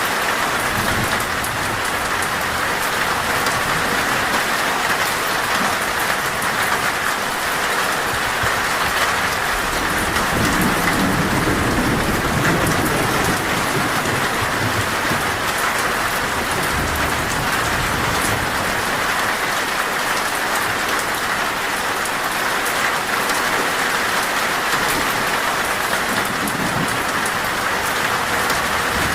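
Torrential rain falling steadily on a metal roof, a dense even hiss of drops, with low thunder rumbling underneath, swelling most about ten to thirteen seconds in.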